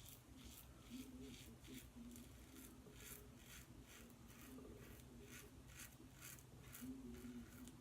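Double-edge safety razor with a Teflon-coated Sputnik blade scraping through lathered stubble in short, quick strokes, about two to three a second, faint. The blade is cutting cleanly without pulling or tugging.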